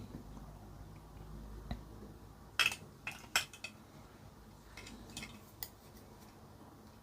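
A few light, sharp clinks and taps of small hard parts or tools being handled on a workbench. There is a quick cluster of about four a few seconds in, then a few fainter ones.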